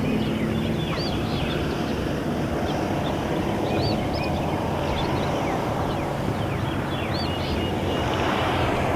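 Steady low hum of a boat motor over wind and water noise, with birds chirping repeatedly high above it. Near the end a rushing noise grows louder.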